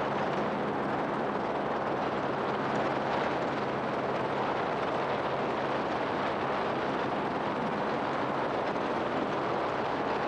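Helicopter in flight: a steady rush of engine and rotor noise with a faint low hum underneath.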